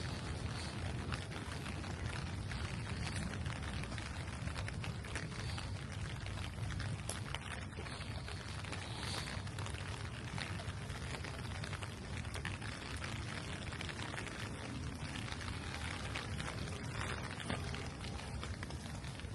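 Steady rain falling, with many small drops ticking sharply over a constant hiss and a low steady rumble beneath.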